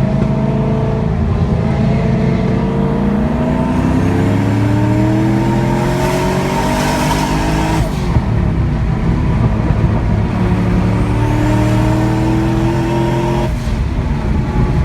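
Car engine under hard acceleration, its pitch climbing steadily, dropping sharply at a gear change about eight seconds in, then climbing again and dropping once more near the end.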